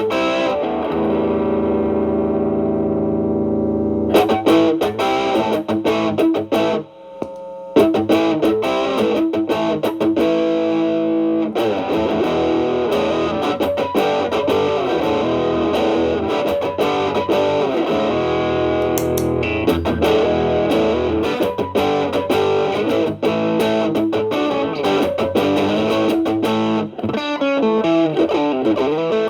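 Electric guitar (Stratocaster) played through an Xotic BB Plus preamp, with Channel A at gain 11 boosting Channel B at gain 9, into a Marshall Valvestate amp: a heavily distorted, stacked-gain tone. A chord rings out for a few seconds, then picked notes and lead runs follow, with a short break about seven seconds in.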